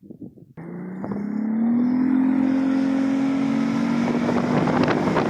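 Boat's outboard motor running under way. Its pitch rises for about a second, then holds steady, with wind noise on the microphone building near the end.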